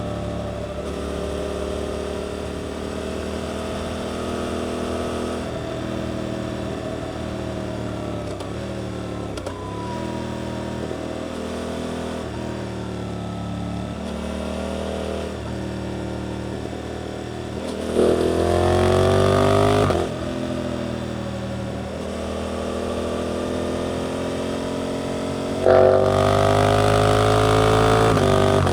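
Suzuki GSX-8S 776 cc parallel-twin through an Arrows aftermarket exhaust, running steadily on part throttle, then opened up hard twice. The pitch climbs each time: once about two-thirds of the way in, cut off sharply after about two seconds, and again near the end.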